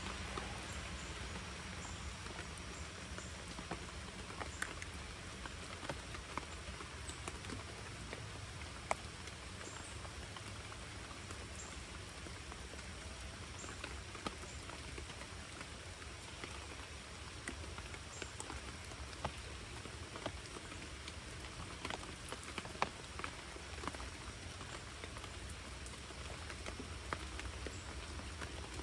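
Steady rain falling on a creek, an even hiss with scattered sharp ticks of drops landing close by.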